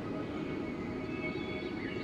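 Wind blowing steadily, a low rush with thin whistling tones held over it and a brief sliding whistle near the end.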